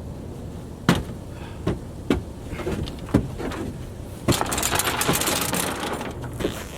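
A vehicle engine running low and steady, with several sharp knocks and clunks, then a couple of seconds of loud rushing noise starting a little past the middle.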